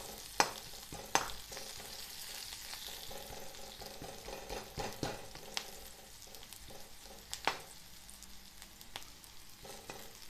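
Sliced onions and whole spices frying in oil in a kadhai, a steady light sizzle, while a steel ladle stirs them, scraping and knocking against the pan about seven times. The loudest knock comes about half a second in.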